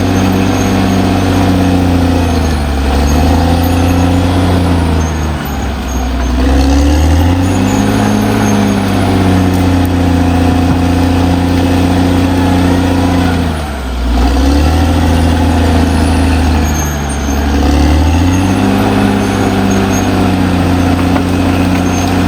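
Caterpillar D6R XL bulldozer's diesel engine running hard, its pitch dragging down four times and climbing back each time as it pulls down under load and recovers.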